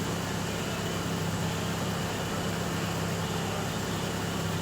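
Mitsubishi Lancer's carbureted 4G13 four-cylinder engine idling steadily, an even hum that does not change.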